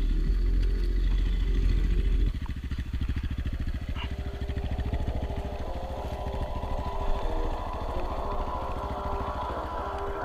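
A loud low rumble for about two seconds, then a small motorcycle engine's rapid putter, its pitch slowly rising toward the end as the revs climb.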